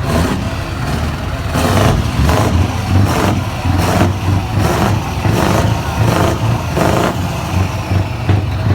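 Heavy truck diesel engine running with a deep, steady low note, overlaid by short loud surges that come roughly every half second to a second.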